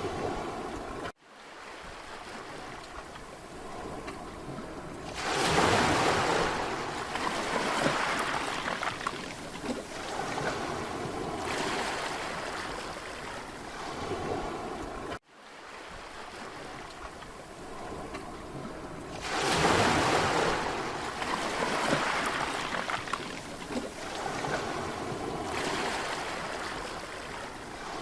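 Mediterranean sea waves breaking on a beach. Two big breaks come about five and nineteen seconds in, each followed by a long hiss of water washing up and ebbing. The sound cuts out abruptly for an instant twice, near the start and about halfway.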